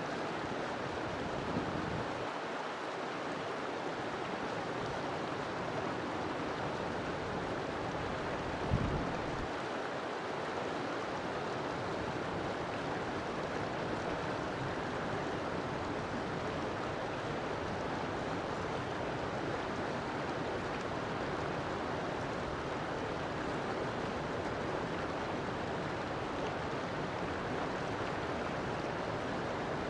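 River water flowing steadily, a continuous rushing sound, with one brief low thump about nine seconds in.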